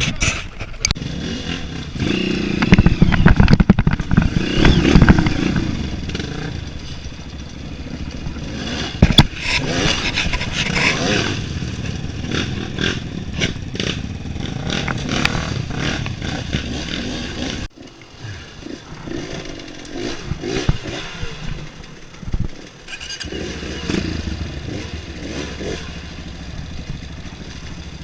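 Motorcycle engine running on a trail ride, its revs rising and falling unevenly, with clatter. The sound drops off abruptly about two-thirds of the way through, then carries on quieter.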